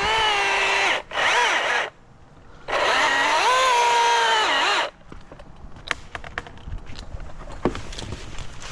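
Battery-powered chainsaw cutting through a red maple limb: a high motor whine that dips in pitch under load, in three runs with clean stops and no idle between. The last run ends about five seconds in, followed by scattered sharp cracks and snaps of wood.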